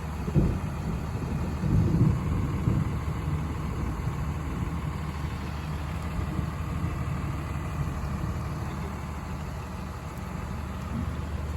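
Truck engine idling steadily, with a couple of louder bumps in the first two seconds.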